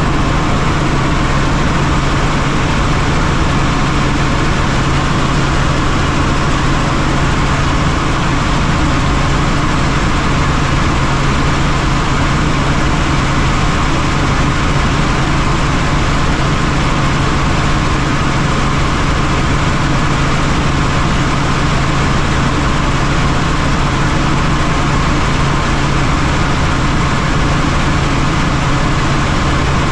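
Helicopter in flight: a loud, steady engine and rotor drone with a constant low hum, unchanging throughout.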